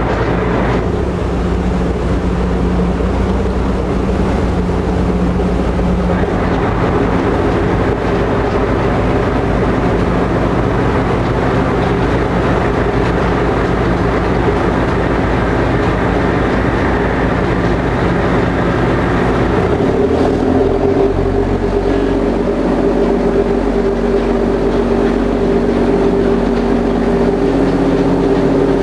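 Engines of a passenger ferry droning steadily, heard on board while under way. About two-thirds through, the engine note changes to a different set of tones.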